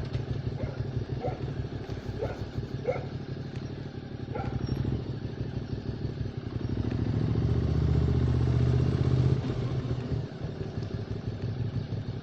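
QJ Motors SVT650X motorcycle engine with an Arrow slip-on exhaust, running along at low revs. About halfway through it pulls harder and louder for a few seconds, then eases off. A few short high chirps sound over it in the first few seconds.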